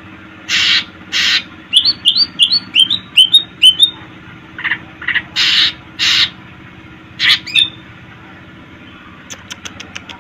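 Green leafbird (cucak ijo) singing in bursts. It gives harsh rasping calls, a run of about seven quick sliding whistled notes, and a rapid string of high ticks near the end, mixing mimicked fill-in phrases with its own song.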